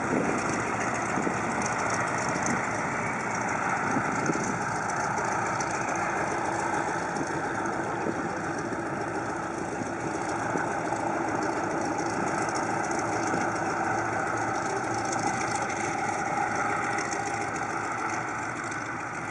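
Piston aircraft engine running steadily at idle or low power.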